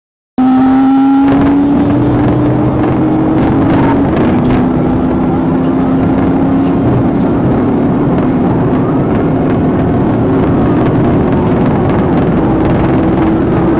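Vehicle engine running hard at high speed, with heavy road and wind noise. It starts abruptly about half a second in, and the engine pitch climbs slowly.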